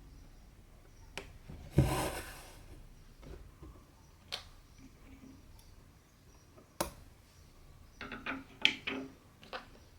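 Cross-stitching handling sounds: a needle and cotton thread being worked through cross-stitch fabric. There are a few sharp clicks, a louder rustle of thread being drawn through about two seconds in, and a cluster of small taps and rubs near the end.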